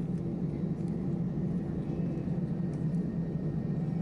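Inside the cabin of an Airbus A319-111 with its CFM56 engines running: a steady low hum with a droning tone, even throughout.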